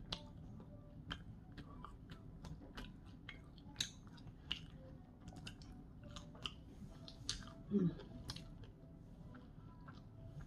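A person chewing seasoned curly fries dipped in sauce, heard close up: a steady run of irregular small wet clicks and crunches. About three quarters of the way through comes one short falling voice sound, like a brief 'mm'.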